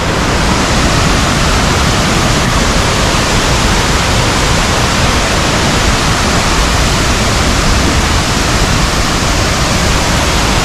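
A waterfall's falling water heard up close: a loud, steady rush of noise with no letup.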